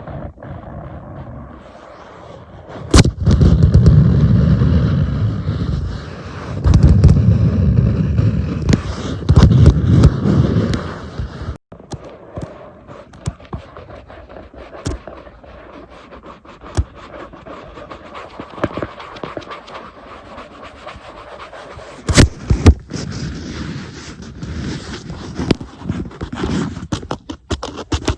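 Tapping and scratching on an iPad: a long stretch of loud, rough rubbing in the first part, then lighter scattered taps and scratches, with a couple of sharp knocks about two thirds of the way through.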